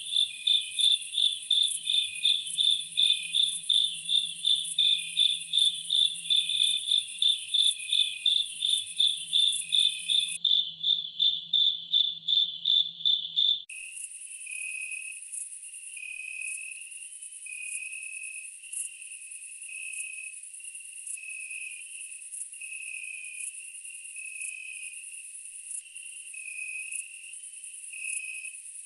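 Insects chirping: a loud, pulsed chirp at about three a second over a steady high trill, which stops about 14 seconds in, leaving a softer chorus of chirping insects.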